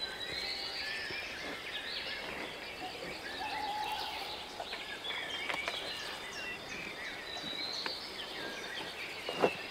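Several small birds chirping and singing over a steady outdoor hiss, with a brief low thump near the end.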